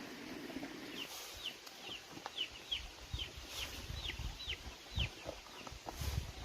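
Young fowl peeping: a run of about ten short, high calls, each falling in pitch, a few a second, with scattered low knocks and thumps.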